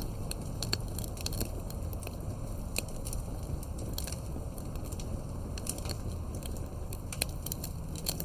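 Campfire burning and crackling: frequent irregular sharp pops and snaps over a steady low rush of the flames.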